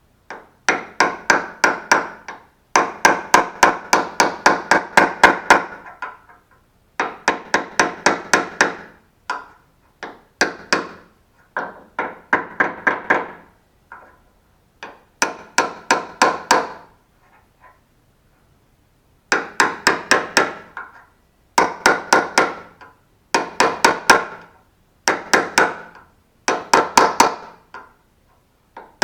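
Hammer lightly tapping a small chisel held over a door-hinge bushing, driving it evenly into the hinge hole. Quick runs of sharp metal taps, about five a second, come in about a dozen bursts with short pauses between.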